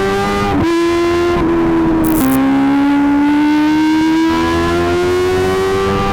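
Kawasaki ZX-25R's 250 cc inline-four through an Akrapovic GP titanium exhaust, pulling at high revs. The engine note drops sharply about half a second in and again about two seconds in, as at upshifts, then climbs steadily.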